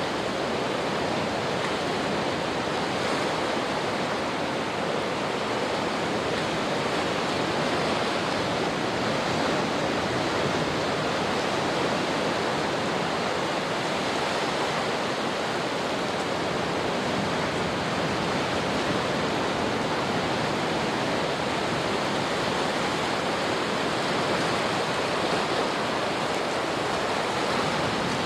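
Steady rushing water: an even, unbroken wash of noise that holds level, with no surges or separate splashes.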